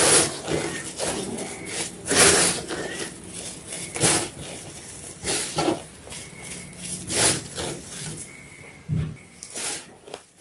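A block of white gym chalk being crunched, with about eight loud, sharp crunches at irregular intervals of one to two seconds over a softer grainy crackle between them.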